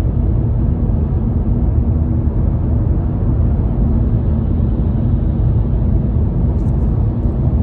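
Steady, loud low rumbling noise, heaviest in the bass, with a faint steady hum running through it.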